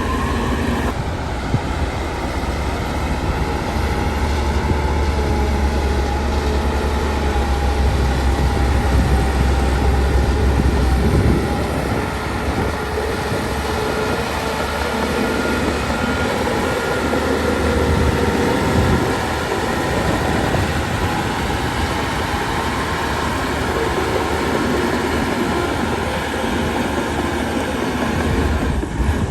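Heavy diesel earthmoving machinery working, most likely a Shantui DH17 crawler bulldozer's engine with its steel tracks clanking. A deep engine drone eases off about eleven seconds in.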